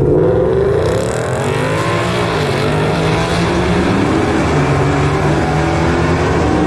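Drag cars launching off the start line and accelerating hard down the strip. The engine note rises and drops back at each gear change, with a burst of hiss about a second in.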